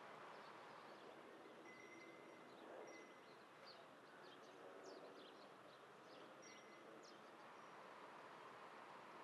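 Near silence: faint outdoor ambience with scattered quiet, high chirps and a few short whistled notes from small birds.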